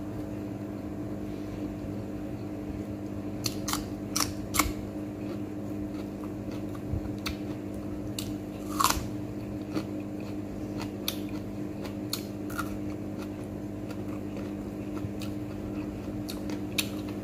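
Close-up eating sounds of chicken eaten by hand: scattered short wet clicks and smacks of biting and chewing, the loudest about nine seconds in, over a steady low hum.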